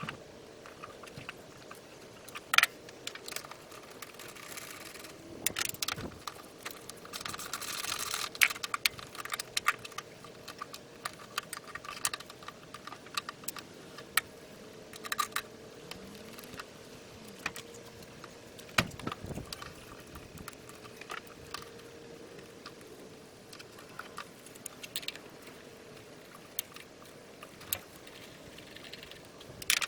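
Irregular metallic clinks, taps and knocks of hand tools and parts being handled, with a few louder knocks and two short raspy stretches.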